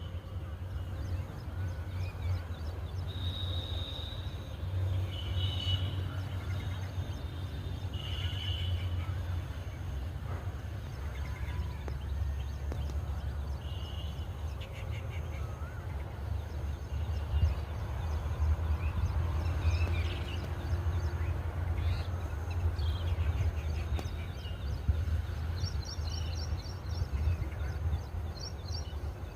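Outdoor ambience of small birds chirping and trilling in short scattered phrases over a steady low rumble.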